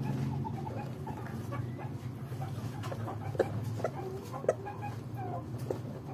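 Chickens clucking: short scattered calls, a few sharper ones around the middle, over a steady low hum.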